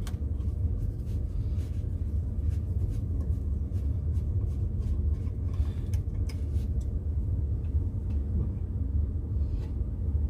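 Steady low rumble with a few faint clicks and taps.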